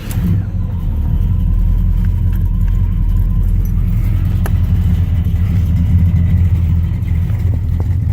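A 1978 Pontiac Trans Am WS6's 355 V8, breathing through long-tube headers, 2.5-inch exhaust and Dynomax Super Turbo mufflers, catches right at the start and settles into a steady, deep idle after the throttle has been pumped a couple of times.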